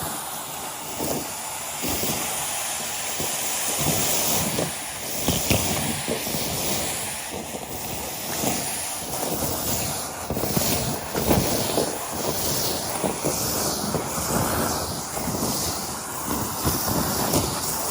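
Henry cylinder vacuum cleaner running steadily with a rushing airflow, with many irregular crackles and rattles as debris is sucked up the hose.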